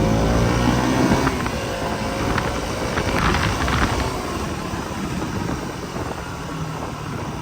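KTM Duke 200's single-cylinder engine running as the bike is ridden in first gear, gradually fading. The freshly replaced chain and sprockets run without the knocking that the worn chain kit made.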